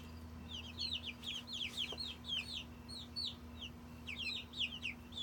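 A flock of young chickens peeping: many short, high chirps that slide downward, coming rapidly and overlapping throughout.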